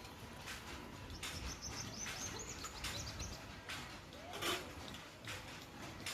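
A small bird twittering: a quick run of high chirps lasting about two seconds, starting a second in. Scattered short rustles and knocks are heard throughout, the loudest about four and a half seconds in.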